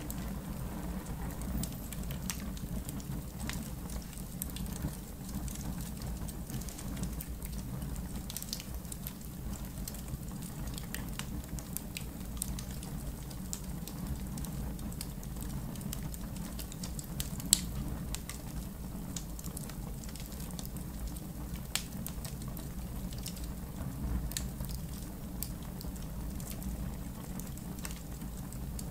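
Fire in a fire pit crackling, with scattered sharp pops over a steady low rumble; one louder pop a little past halfway.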